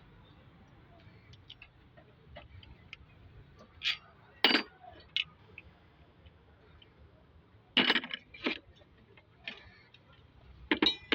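Metal tools and small engine parts clinking and clanking, a handful of sharp separate hits a few seconds apart, the loudest about halfway through and again about two thirds through.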